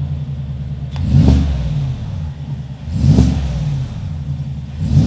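Chevrolet Silverado ZR2's 6.2-litre V8 with a stainless steel aftermarket exhaust, idling with a deep rumble and blipped on the throttle three times. Each rev rises and falls back to idle within about a second.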